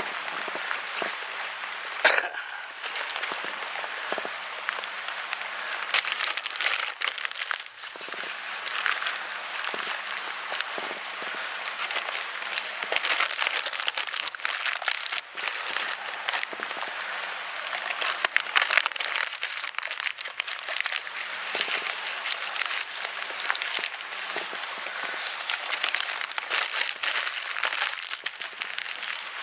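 Bonfire crackling, with a dense run of small pops and snaps and a louder pop about two seconds in.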